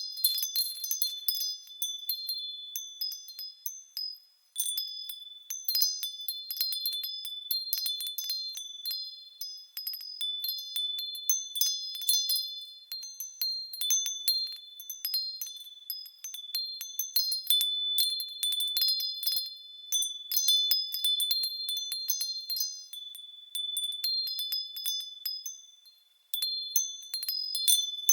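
Japanese fūrin wind chime ringing in the breeze: irregular clusters of high, clear strikes that overlap and ring on. The ringing dies away almost to nothing about four seconds in and again near the end before the chime is struck again.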